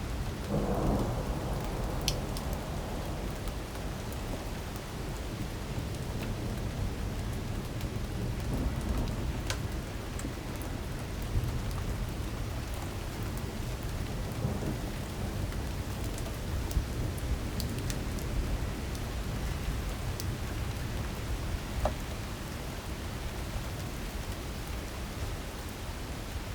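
Heavy rain pouring steadily in a storm, with a constant low rumble underneath and scattered sharp ticks of drops striking close by. A brief swell just after the start.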